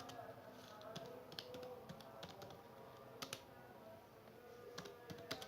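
Computer keyboard being typed on: faint, irregular keystrokes in short runs as a database query is entered.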